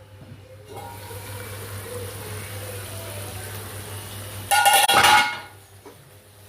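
Chicken curry cooking in oil in a pan, a steady bubbling hiss. About four and a half seconds in there is a loud, ringing clatter of metal cookware that lasts under a second.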